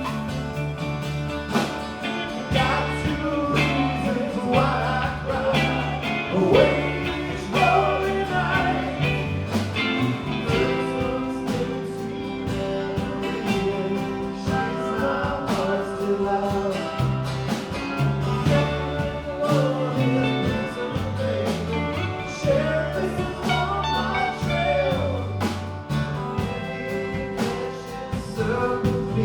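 A live band playing a song: a voice singing over guitar and bass with a steady beat.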